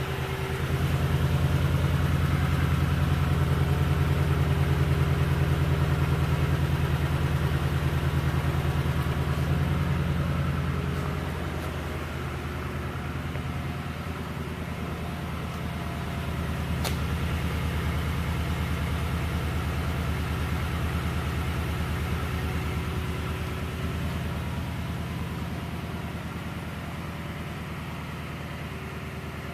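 2019 Toyota Tundra TRD Pro's 5.7-litre V8 running at idle through its true dual exhaust, a steady low hum. It is louder for about the first ten seconds, drops away, then swells again for a while past the middle.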